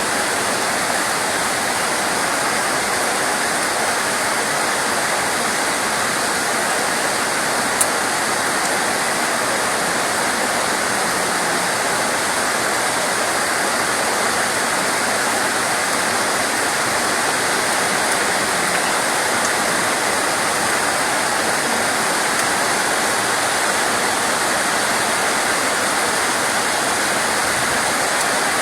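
Steady rain, an even hiss that does not let up, with one brief click about eight seconds in.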